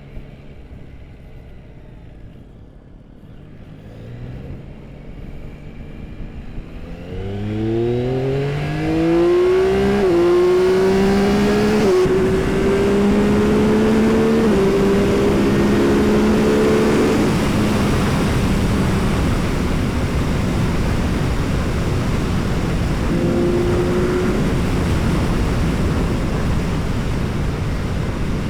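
Yamaha R9 motorcycle's three-cylinder engine through an Akrapovic exhaust pulling away, its revs climbing and dropping through four quick upshifts. In the second half, steady riding is mostly covered by wind noise on the microphone.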